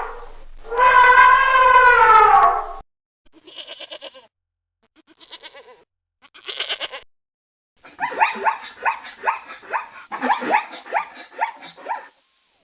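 Animal calls, goat bleating among them. A long held call falls in pitch at its end, then three short quavering bleats follow. Near the end a rapid run of short, rising yelping calls comes from another animal.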